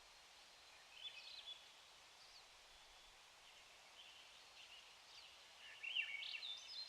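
Small birds chirping faintly over a faint steady hiss: a few short calls about a second in, and a louder, busier run of chirps near the end.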